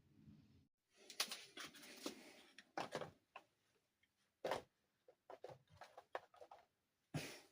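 Small plastic dollhouse furniture pieces and their packaging being handled: irregular soft clicks, taps and rustles, with sharper knocks about a second in, around the middle and near the end.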